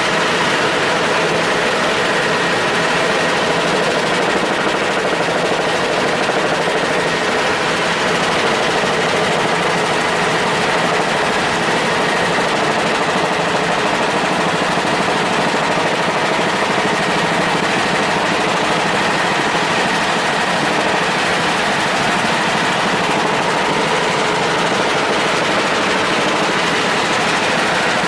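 Helicopter engine and rotor running steadily: a loud, even mechanical noise with a faint high whine.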